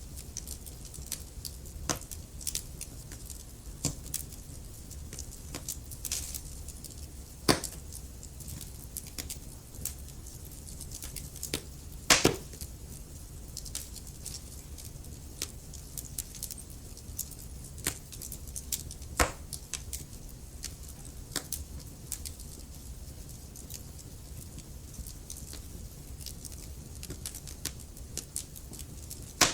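Wood fire crackling in a fireplace: irregular small snaps and pops over a low steady rumble, with a few louder pops, the loudest about twelve seconds in.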